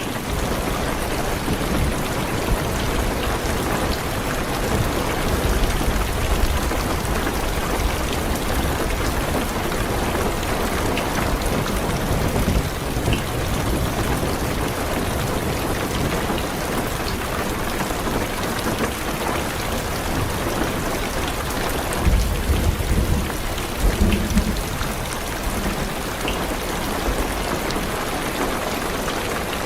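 Heavy rain pattering steadily on a car's roof and windows, with low rolling thunder that swells loudest about three quarters of the way through.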